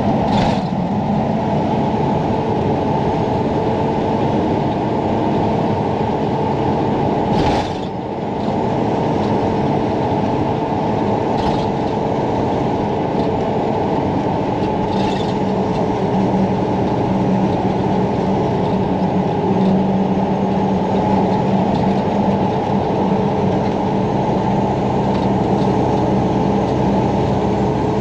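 Dump truck's engine running steadily, heard from inside the cab, with a few sharp clunks as the truck is driven.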